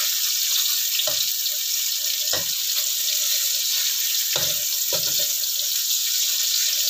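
Oil sizzling steadily in a wok as dried shrimp, mushroom, shallots and garlic fry. A spatula scrapes and knocks against the wok four times while the food is stirred.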